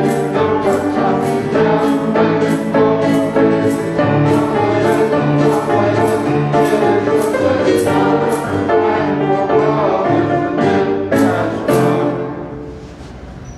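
Church choir singing a hymn with instrumental accompaniment, in steady beats about twice a second, dying away near the end.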